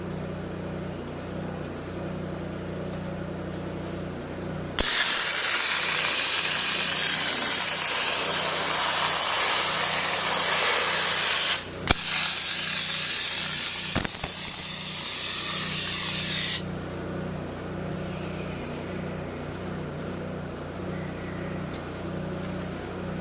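Dry ice blaster hissing loudly in two long blasts, starting about five seconds in, with a brief break near twelve seconds and a stop near seventeen seconds. A steady low machine hum runs underneath.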